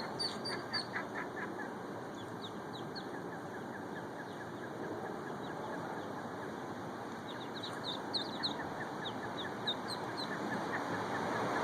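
Ducklings peeping: many short, high chirps, thickest in the first second or so and again later on, over a steady background hiss.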